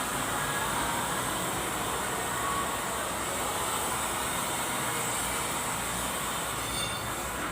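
Kubota V1501 four-cylinder diesel engine running steadily.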